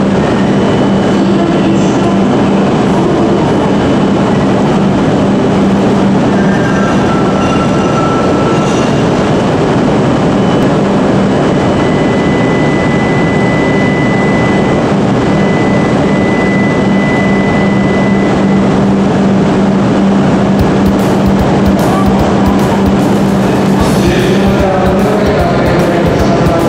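Steady hum and whir of an E5 series shinkansen standing at the platform, with a continuous low tone. A drumbeat comes in over it in the last few seconds.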